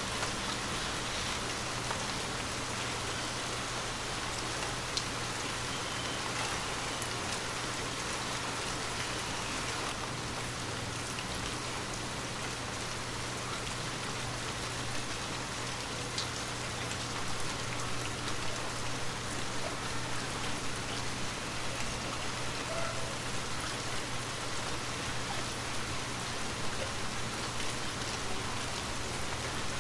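Steady light rain falling continuously, with small scattered drop ticks against a glass window.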